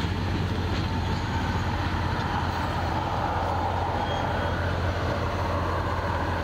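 Train cars rolling past: a steady rumble of steel wheels on the rails, with a constant low hum.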